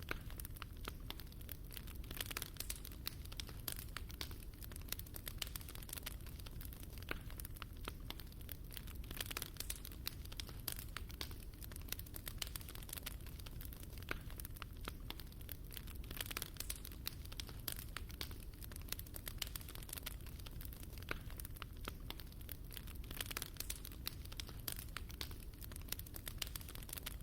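Fire crackling in a fireplace: a steady, dense run of small pops and snaps over a low, even rumble.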